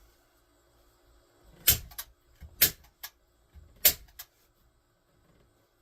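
Hand staple gun firing three times while stapling carpet to wood. Each shot is a sharp snap followed by a lighter click about a third of a second later.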